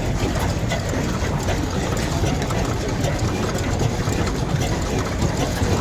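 An engine running steadily at idle, with a dense run of fine ticks over a low rumble.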